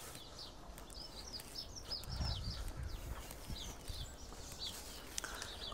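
Small birds chirping in quick runs of short high notes, with a low rumble about two to three seconds in.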